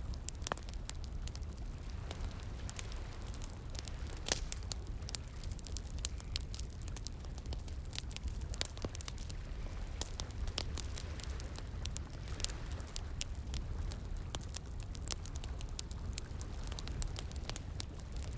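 Campfire crackling, with irregular sharp pops and snaps throughout, over a steady low rush of flowing water.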